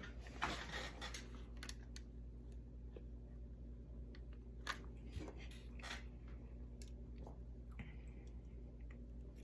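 Faint scattered clicks and short scrapes of small parts being handled while cleaning a model locomotive's drive, over a steady low hum.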